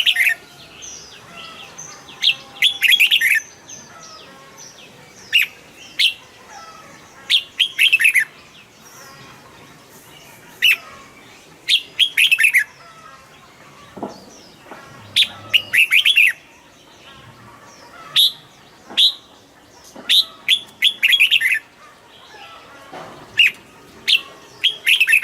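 Red-whiskered bulbul singing: short, loud phrases of quick chirping notes, repeated every second or two.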